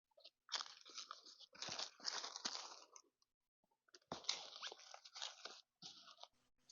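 Dry crunching in four short bursts with brief silent gaps between them.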